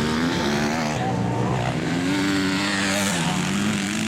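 Off-road motocross motorcycle engines racing, their pitch rising and falling as the riders work the throttle and shift, with more than one bike heard at once.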